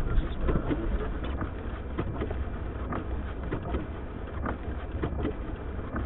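Blizzard wind rumbling and gusting, with scattered small ticks and taps.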